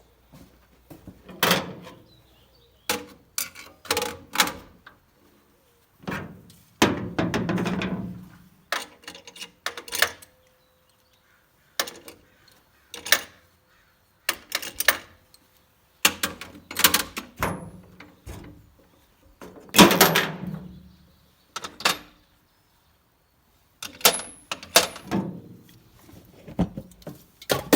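Irregular metal clanks and knocks, some ringing briefly: tools and truck parts being handled and set down, with dead pauses between them.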